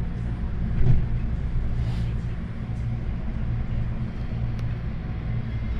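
Steady low hum and rumble inside an MTR Tung Chung line CAF train carriage, with a single knock about a second in.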